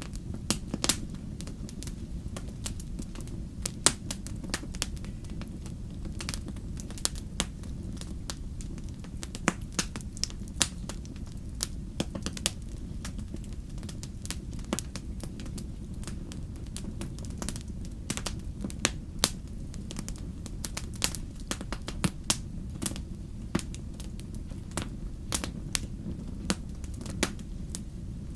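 Wood fire burning in a fireplace: a steady low rumble with many sharp, irregular crackles and pops, some louder than others.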